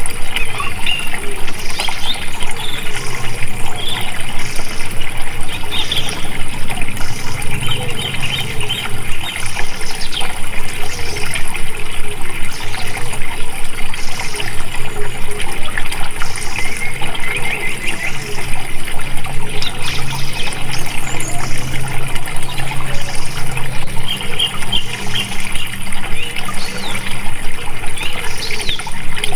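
Running water flowing and babbling steadily, with birds chirping at intervals over it.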